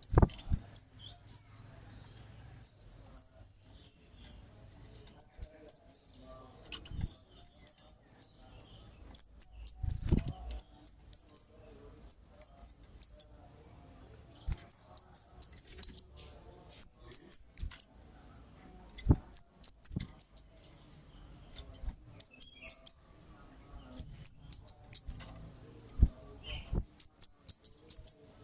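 Cit kemade songbird calling vigorously: quick clusters of three to six sharp, very high chirps, repeated every second or two. A few faint low knocks occur between them.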